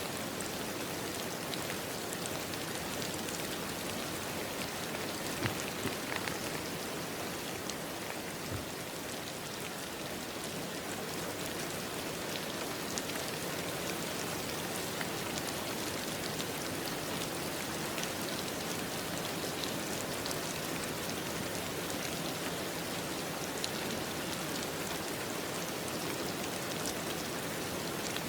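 Steady rain falling, an even hiss with scattered small drop patters on a surface.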